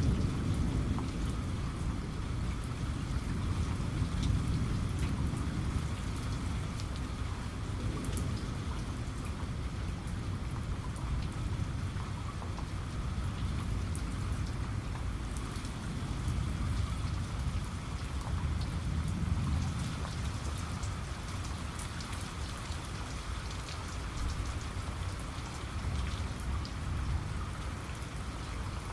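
Steady rain falling on a surface, with scattered ticks of single drops, over a low thunder rumble that swells near the start and again about two-thirds of the way through.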